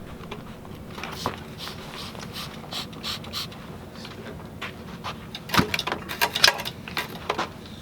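Scattered light clicks and knocks of parts being handled while a pit bike wheel is worked on, coming thickest in a quick cluster about five and a half to seven and a half seconds in.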